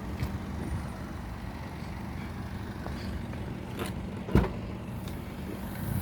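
Steady low hum of a motor vehicle, with a single sharp knock about four and a half seconds in and a few faint clicks.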